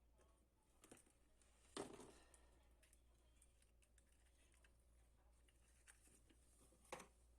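Near silence, broken by a few light clicks and knocks of small objects being handled. The loudest knock comes about two seconds in and rings briefly.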